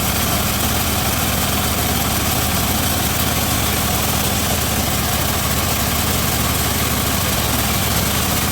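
Homemade bandsaw sawmill running steadily, its drive engine holding an even speed.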